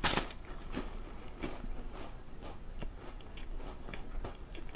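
Chewing a crisp soy-milk wafer: a crunchy bite at the start, then soft, irregular crunching as it is chewed.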